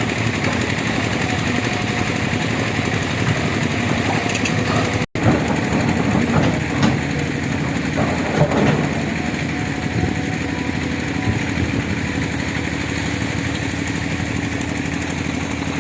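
Excavator diesel engine running steadily, with a few short knocks about five to nine seconds in. The sound cuts out for an instant about five seconds in.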